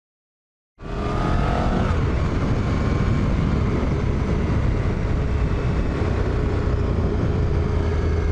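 Motor vehicle engine running steadily under road and wind noise, heard while riding; it cuts in abruptly about a second in after silence.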